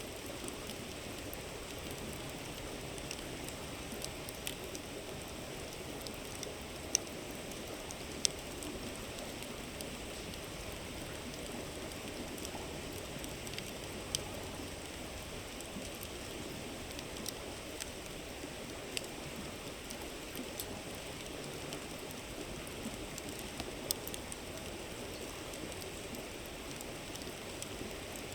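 River water rushing steadily, with a wood campfire crackling over it: sharp single pops every few seconds, a few of them louder than the rest.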